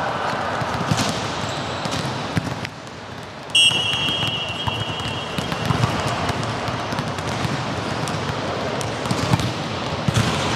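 Volleyball gym ambience of players' voices and ball thuds. About three and a half seconds in, a long, shrill whistle blast sounds and fades out a few seconds later.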